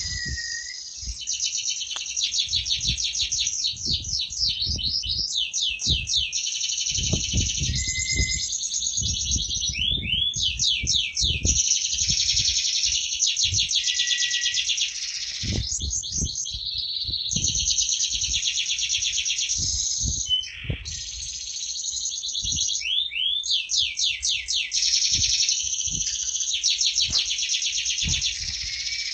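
Domestic canary singing continuously: a long rolling song of rapid trills and fast sweeping notes, pausing only briefly. Soft low knocks run underneath.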